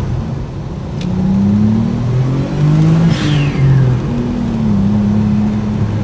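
Turbocharged Mazda MX-3 V6 accelerating under boost, heard from inside the car: the engine note climbs, drops at a shift and climbs again, then settles into a steady cruise. A brief falling whistle comes about three seconds in.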